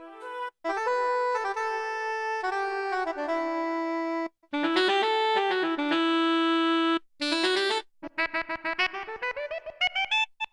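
Roland XP-80 synthesizer workstation playing a series of factory preset sounds in turn: short keyboard phrases and held chords, with brief silences between patches. It ends with a fast rising run of short notes.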